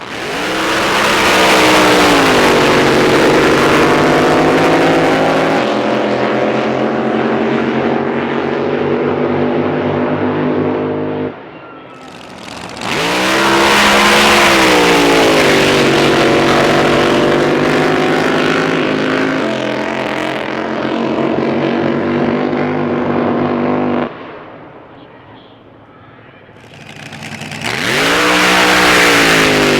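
Drag boat racing engines at full throttle on three runs in a row. Each starts with the pitch sweeping up, then settles into a steady loud drone, and the first two cut off sharply, at about 11 and 24 seconds in. The third starts near the end.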